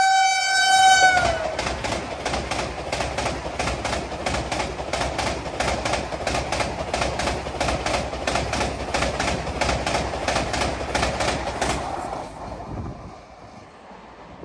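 Vande Bharat Express (Train 18) electric multiple unit passing at high speed. Its horn sounds a steady tone that drops slightly in pitch and stops about a second in. Then its wheels run over the rail joints in a rapid, even clickety-clack for about ten seconds, and the sound fades near the end.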